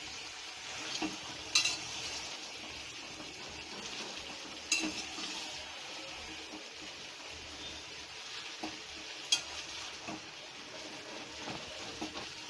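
Chicken pieces, onion and tomato sizzling in mustard oil in a steel kadai as a metal spatula stirs and scrapes through them, with a few sharp clinks of the spatula on the pan.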